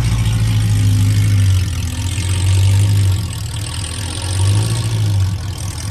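A car engine idling with a steady low rumble that eases off and comes back a few times.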